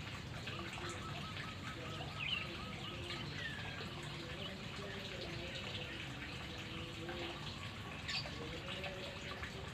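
Faint songbird calls and chirps over a steady trickle of running water, with a quick run of about eight short repeated notes about a second in and a sharp chirp near the end.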